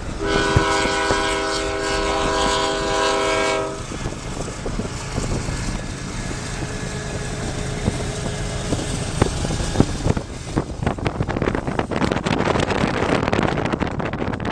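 CSX freight locomotive horn sounding one long, steady chord that cuts off after about three and a half seconds, followed by the steady rumble and clatter of the passing freight train, with wind buffeting the microphone near the end.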